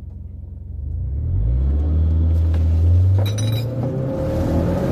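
Subaru Forester tS STI's turbocharged 2.0-litre boxer engine on a full-throttle launch, heard inside the cabin: it holds a low note at the line, then from about a second in gets louder and rises in pitch as the car pulls away from standstill.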